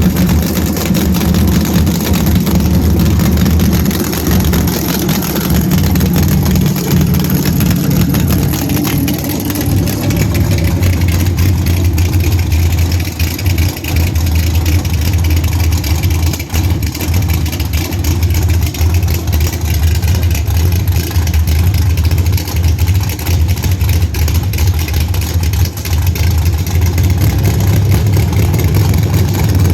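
Drag car engine running loud and steady at a low, even pitch. A higher note sounds along with it for the first several seconds and then drops away, and the level dips briefly a few times.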